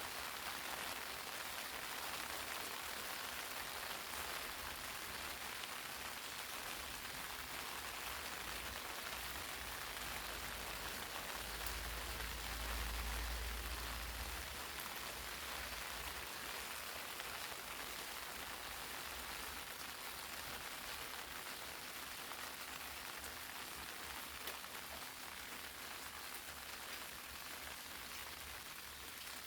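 Steady rain, raindrops pattering on eggplant leaves. A brief low rumble rises under it about halfway through.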